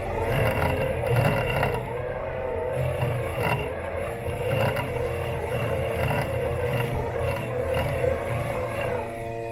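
Robot lawn mower's electric motors whining with a pitch that wavers up and down, over a rough rumbling and scraping from the mower moving through the grass.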